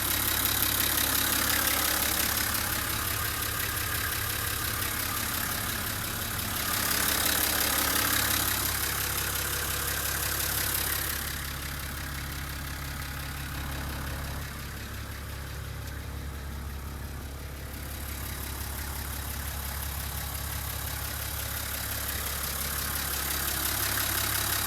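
Nissan Civilian bus's TD42 4.2-litre inline-six diesel engine idling steadily. It is louder for the first ten seconds or so, then quieter.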